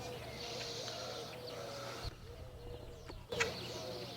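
A dove cooing softly in the background, low hollow notes, with a single sharp click about three and a half seconds in.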